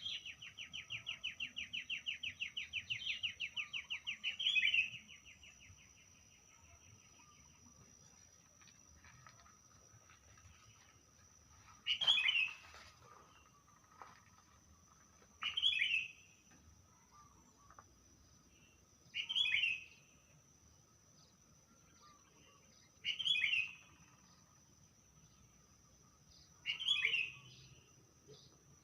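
Birdsong: a fast trill of rapidly repeated notes for about the first five seconds, ending in a louder note, then a short call repeated five times, about every four seconds. A faint steady high-pitched tone runs underneath.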